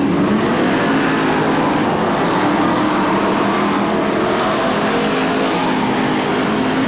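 Several BriscaF1 stock cars' V8 engines running hard at race speed, their engine notes layered over each other in a steady, loud din.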